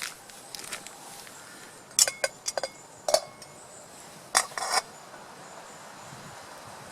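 Metal camp cookware clinking: short clusters of sharp metallic knocks that ring briefly, about two seconds in, again just after three seconds, and once more around four and a half seconds.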